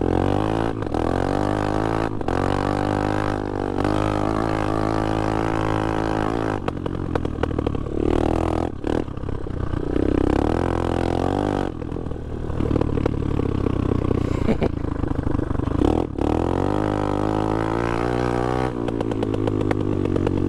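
Chinese 250cc dirt bike engine under way, revving up and dropping back repeatedly as the rider works the throttle through the gears, with brief dips where the throttle is closed. The exhaust pops as it comes off the throttle.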